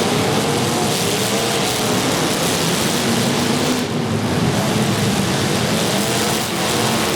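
Demolition derby car engines revving and running together, their pitch rising and falling, over a steady wash of noise.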